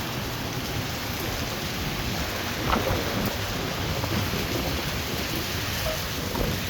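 Heavy thunderstorm rain pouring down in a steady rush.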